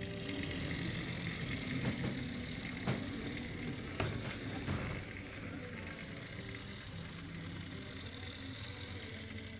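Jouef HO-scale model electric locomotive running: a steady whir from its motor and gearing, with a few sharp clicks in the first half.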